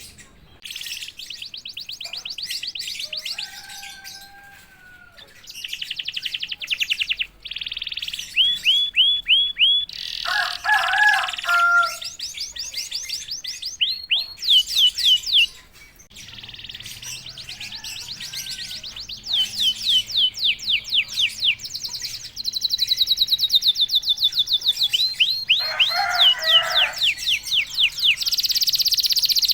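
Domestic canary singing a long, varied song made of fast rolling trills of repeated down-slurred whistles. The phrase and speed change every second or two, with a few lower warbled notes mixed in.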